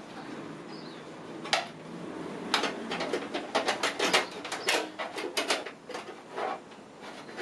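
A quick, irregular run of sharp metallic clicks and knocks: small hardware and tools being handled in a computer case. One click comes about a second and a half in, then a dense cluster of clicks follows for about four seconds.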